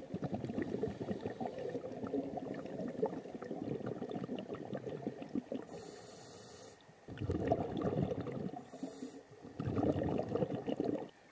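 Scuba regulator breathing underwater: a short hiss of air through the demand valve on each inhale, followed by the bubbling of exhaled air. Three breaths in a row.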